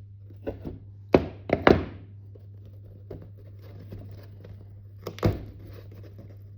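A handful of sharp knocks and thunks from a hand tool working on a model railway baseboard, pulling out the last track pins and breaking up old scenery. The loudest cluster comes about a second and a half in, with one more knock near the end, over a low steady hum.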